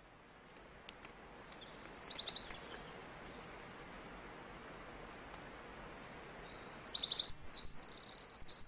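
A songbird singing: a burst of high, quick chirps about two seconds in, then a longer run of chirps and trills from about six and a half seconds on, over a faint steady background hiss.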